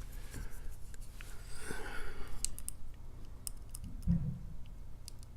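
Small, sharp metallic clicks and light scraping of a lock pick and tension wrench working the pin stack of a 5-pin brass padlock cylinder, in scattered ticks with a cluster past the middle. A short low hum sounds about four seconds in.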